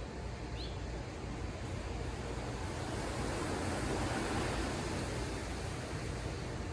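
Ocean surf: a wave breaks and washes in, the hiss swelling to its loudest a little past the middle and then easing, over a steady low rumble.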